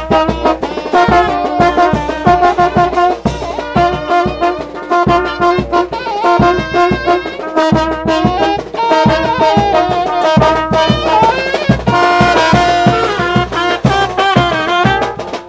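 Tanjidor brass band playing, with trumpets and trombones carrying the melody over a steady drum beat.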